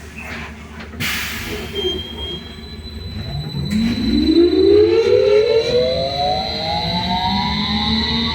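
BKM-43300D trolleybus at a stop: a burst of air hiss about a second in as the pneumatic doors close, then the electric traction drive whining as it pulls away, the whine rising steadily in pitch with speed. Steady high tones from the electrical equipment run underneath.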